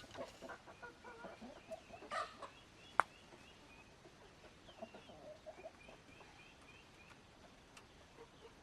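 Chickens clucking in short, faint calls, with one sharp click about three seconds in and a run of thin high chirps after it.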